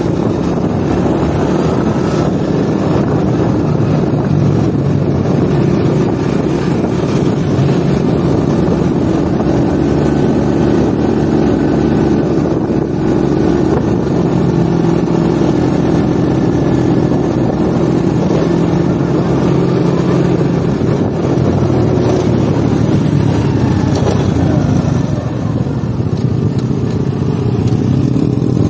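Small motorcycle engine running steadily under way, heard from the rider's seat with road and wind noise; the engine note eases briefly near the end as the bike slows behind traffic.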